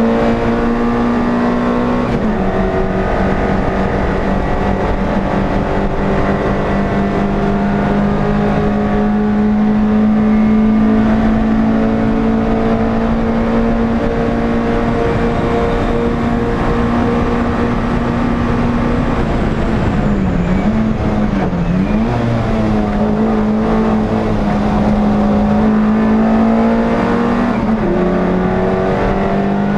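An NSU TT racing car's air-cooled four-cylinder engine, heard from inside the car, running flat out at high, steady revs. About two-thirds through, its pitch dips and wavers briefly, as when lifting off or shifting, then returns to full revs.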